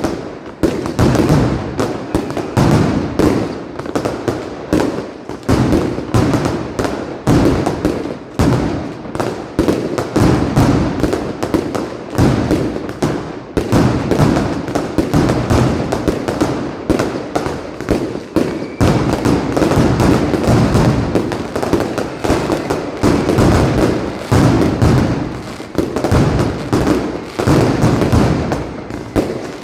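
Mascletà firecracker barrage: a dense, continuous string of loud firecracker bangs going off in rapid succession.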